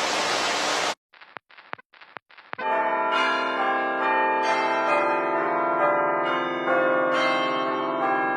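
Start of old videotape playback: about a second of hiss-like static, a few faint clicks, then from about two and a half seconds in a sustained bell-like chime of many ringing tones held together.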